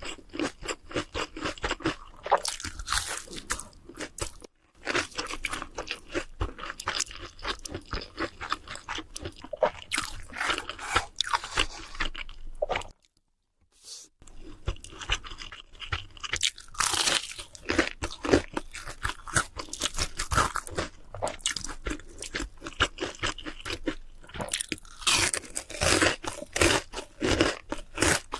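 Close-up crunching and chewing of crispy fried food, bite after bite in quick irregular crackles, with about a second of dead silence roughly halfway through.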